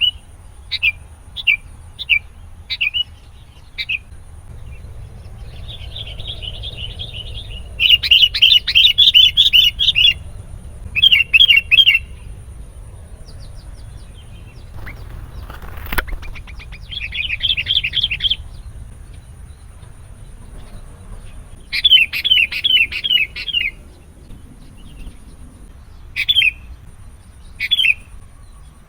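Sooty-headed bulbul calling: sharp, separate single notes at first, then several fast chattering runs of rapid notes, and single notes again near the end. A brief swish sounds about halfway through.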